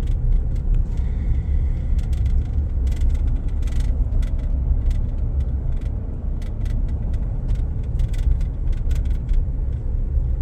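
Pickup truck driving, heard from inside the cab: a steady low road and engine rumble, with scattered light ticks and rattles.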